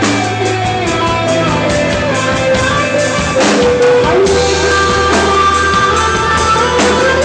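Rock band playing a song, with guitar over bass and drums and long held melody notes.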